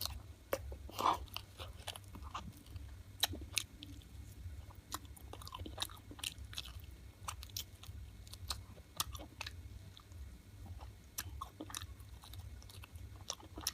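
Close-miked chewing and biting of cooked chicken, with irregular wet smacks and crunchy clicks of meat and bone.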